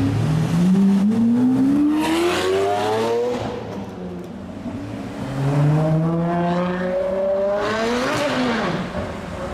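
Sports-car engine accelerating hard twice. Each time the pitch climbs steadily for about three seconds and then breaks off, and the second run falls away after its peak near the end.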